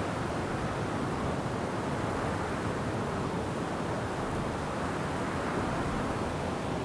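Wind blowing through forest trees: a steady, dense rushing of leaves and branches.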